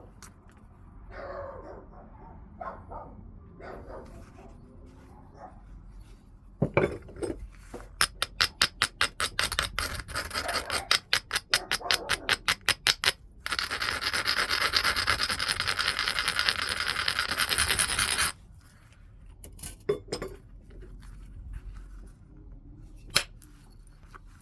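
Heat-treated Burlington chert being worked by hand: a sharp tap, then a quick run of short scraping strokes along the stone's edge, followed by about five seconds of steady grinding. This is the edge being abraded to prepare platforms. A couple of sharp clicks of stone on stone come near the end.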